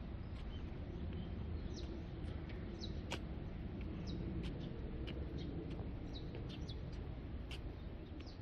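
Small birds chirping in short, scattered calls, some sliding down in pitch, over a steady low rumble.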